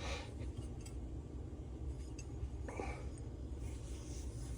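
Faint, light clicks of small engine parts being handled, over a steady low hum.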